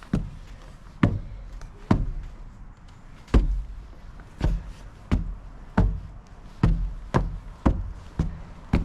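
Heavy footsteps thudding one after another while climbing up a structure, about one a second at first and coming quicker in the second half.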